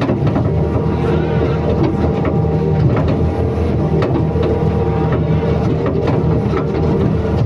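Excavator's diesel engine running steadily, with short clicks now and then over it.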